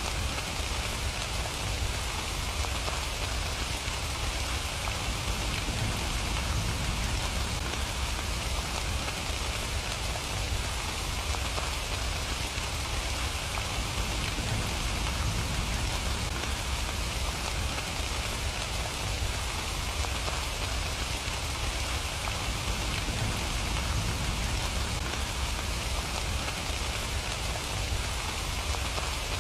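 Steady, even rain, a dense patter with no let-up and a low rumble underneath.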